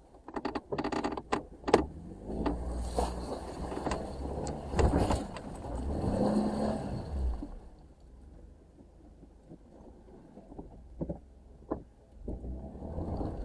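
Jeep Wrangler creeping along a rough off-road trail: low engine and drivetrain rumble with knocks and rattles, louder for the first half and then quieter.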